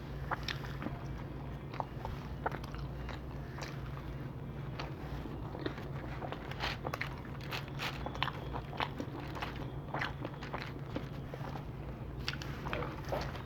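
A person chewing and biting Domino's pizza close to the microphone: irregular crunchy bites, mouth clicks and smacking. A steady low hum runs underneath.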